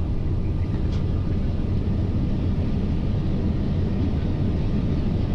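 Steady rumble and rushing noise heard from the flight deck of a Boeing 747-400 Freighter on its landing rollout, with the engines in reverse thrust.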